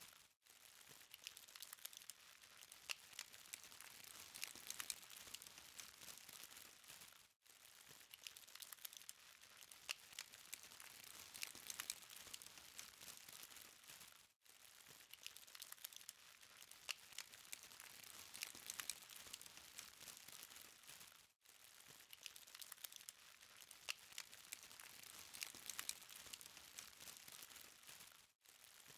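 Charcoal fire crackling: a steady stream of small, faint pops and ticks over a soft hiss. The sound drops out briefly about every seven seconds.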